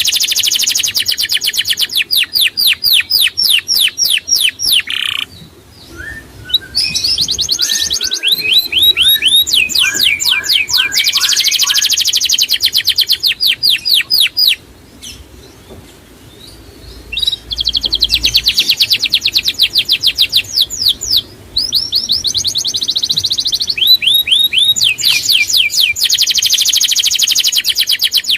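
A songbird singing loud, fast trills of rapidly repeated high notes in long runs of a few seconds each, broken by short pauses. Some shorter, lower notes come between the runs.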